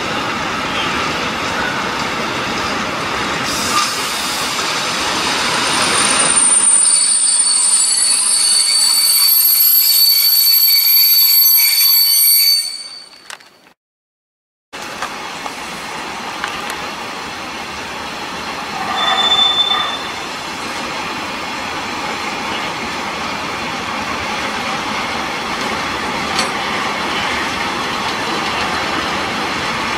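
Container freight wagons rolling past with steady wheel-on-rail noise. From about six seconds in, a high-pitched squeal from the wheels rings over it. The sound cuts out for about a second near the middle, then the rolling resumes with another short squeal a few seconds later.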